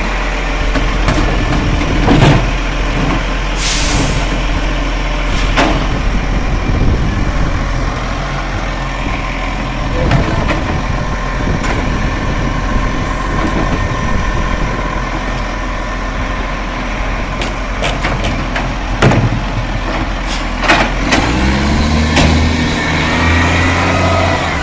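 Garbage truck running, with a short air-brake hiss about four seconds in and scattered knocks and clunks. Its engine revs up with a rising pitch near the end.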